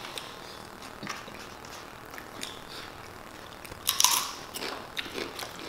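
Close-miked eating: chewing and biting into a burrito and tortilla chips, with scattered small crackles and a louder crunchy bite about four seconds in.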